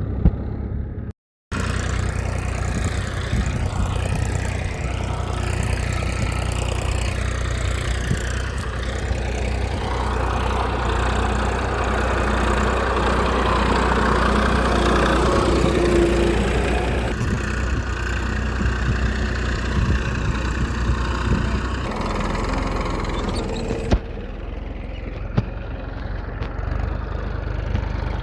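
Small engine of a homemade mini tractor running steadily. There is a brief cut to silence about a second in, and the sound shifts abruptly a few times later on.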